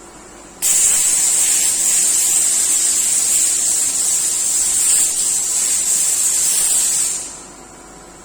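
A long, steady hiss of compressed air blowing, starting suddenly under a second in and tailing off about seven seconds in.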